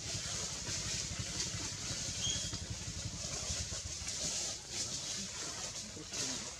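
A small engine running steadily: a low, evenly pulsing rumble with a high hiss over it.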